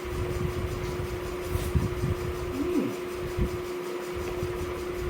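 Close-up chewing of food: irregular low, soft thumps of the jaw working, with a short click about a second and a half in. A steady electrical or fan hum runs under it.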